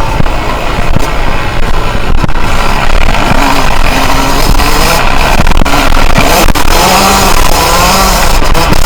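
Yamaha YZ125's 125cc two-stroke single-cylinder engine revving up again and again under way, its pitch climbing and dropping with each gear, with scattered sharp knocks.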